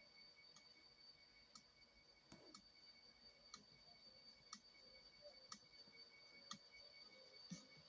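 Near silence with faint, sharp clicks about once a second and a faint steady high whine underneath.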